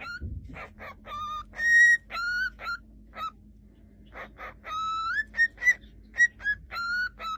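A pet parrot whistling a tune: a quick run of short, clear whistled notes, some sliding upward, with a few hoarser chirps in between.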